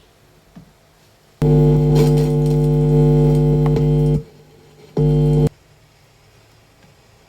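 Portable speaker giving out a loud, steady buzzing tone for about three seconds, then again briefly for half a second, after a faint click.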